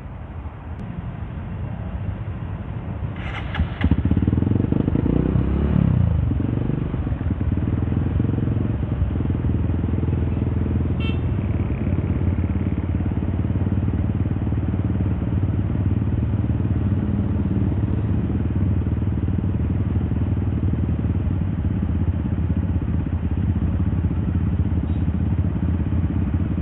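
Honda CRF150L's single-cylinder engine running through a Norifumi Torc aftermarket exhaust while riding. The engine picks up sharply about four seconds in, its pitch rises and falls briefly, then it runs at a steady cruising note.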